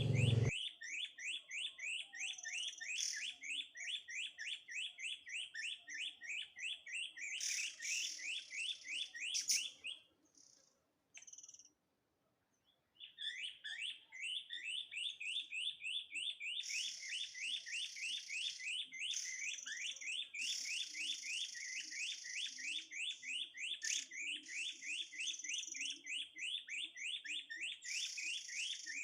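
Recorded bird call played from an MP3 player as a trapping lure: a short chirp repeated evenly about four to five times a second, cutting out for a few seconds near the middle before starting again.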